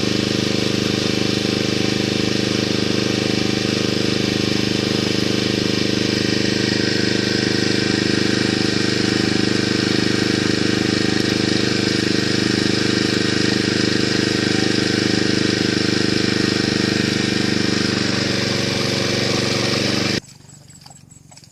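Small engine running steadily at a constant speed, then cutting off abruptly near the end.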